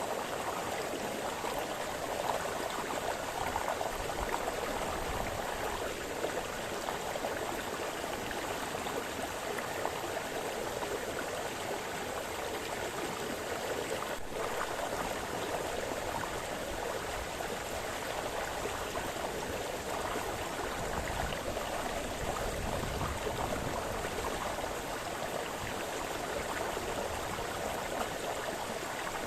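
A brook splashing and babbling steadily, in an even, unbroken rush of water.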